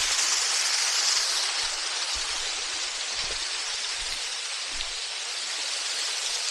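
Small waterfall running thin in the dry season: a steady hiss of falling, splashing water.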